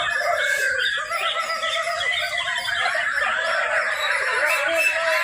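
Many white-rumped shamas (murai borneo) singing at once, a dense tangle of overlapping, quickly rising and falling song phrases.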